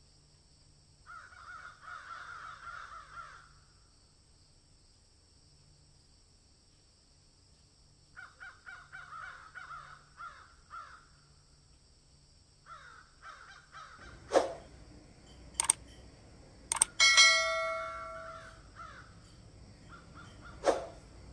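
Bird cawing in three bouts of harsh, rapid calls. Later come a few sharp clicks and a short, loud pitched tone with many overtones.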